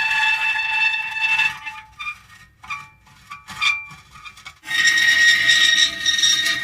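Metal creaking: long, high-pitched drawn-out creaks. One fades out about a second and a half in, a few short squeaks follow, and another long creak begins about two-thirds of the way through.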